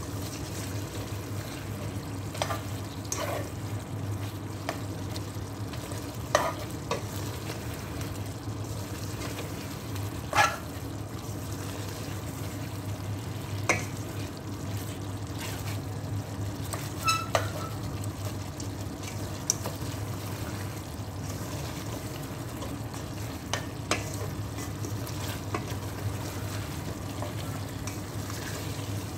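Chicken pieces sizzling in a steel pot as they are stirred and turned with a slotted spatula, browning in their own released juices. The spatula now and then knocks and scrapes against the pot, over a steady low hum.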